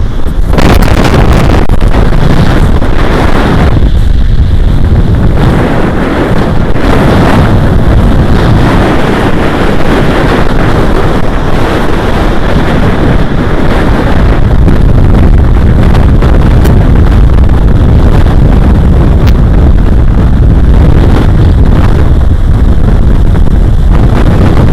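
Gale-force wind, which the speaker puts at around 40–45 mph, blasting the camera's microphone: a very loud, constant, rumbling roar that nearly overloads the audio, with surf on the shore beneath it.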